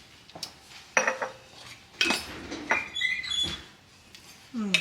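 Kitchen utensils and dishes clinking: several sharp clinks about a second apart, one ringing briefly around the middle.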